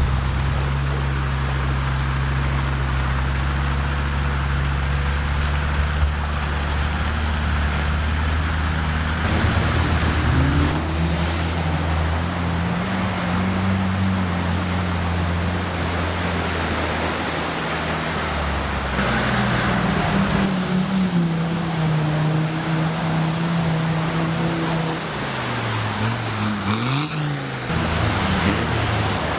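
Off-road vehicle engines running, steady at first and then revving, their pitch rising and falling from about ten seconds in, with a quick dip and rise near the end; a steady rushing noise runs underneath.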